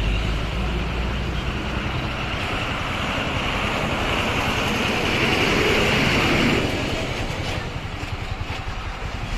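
Road traffic: a steady low engine rumble, with a louder rush of vehicle noise building from about four seconds in and dropping away a little before seven seconds.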